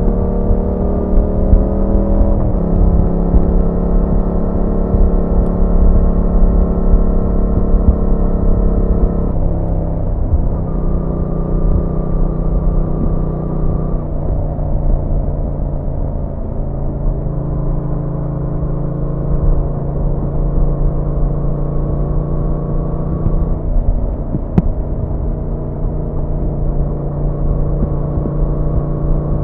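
Yamaha MT-07's 689 cc parallel-twin engine running at steady revs while riding, its pitch stepping to a new steady note several times: a short rise then drop about two seconds in, further drops later and a step back up near the end. A low rumble of wind and road noise runs underneath.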